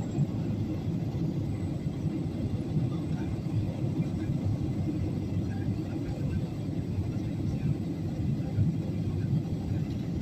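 Airliner cabin noise in flight: a steady low rumble of the engines and the airflow over the fuselage.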